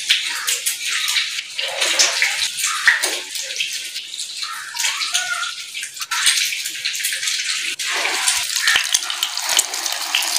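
Egg-dipped chicken and vegetable kababs deep-frying in hot ghee in a frying pan: a steady, crackling sizzle.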